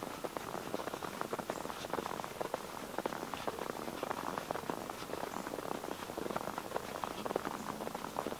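Boots walking through fresh snow, a continuous dense crunching and crackling.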